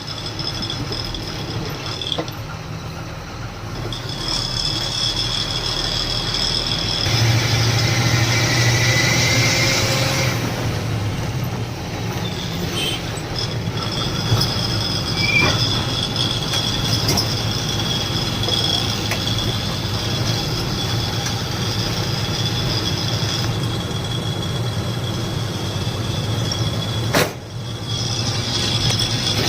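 Steady engine and road noise of a truck driving, heard inside the moving cab, with a low rumble throughout and a brief drop near the end.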